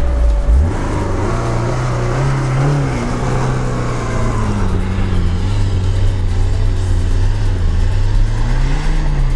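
Lada Niva 4x4's four-cylinder engine pulling under load up a steep snowy hill in high-range gearing, its revs rising and falling with a brief rise near the end.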